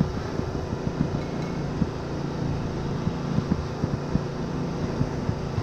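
Honda Winner 150 motorbike under way, its single-cylinder engine running steadily, with irregular short low thumps over the hum.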